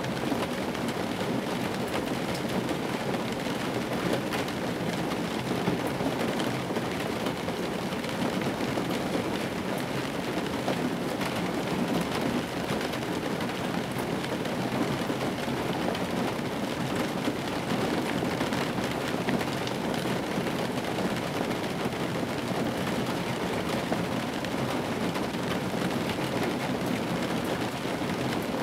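Rain falling steadily on a parked old car, heard from inside the cabin as a dense, even patter of drops on the metal and glass.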